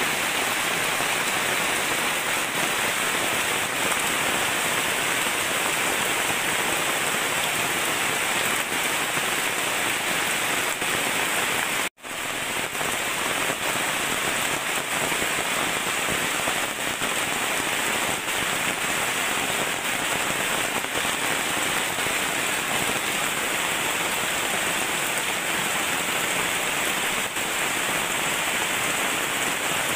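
Heavy rain falling steadily on forest foliage and ground, a constant hiss that cuts out for a moment about twelve seconds in.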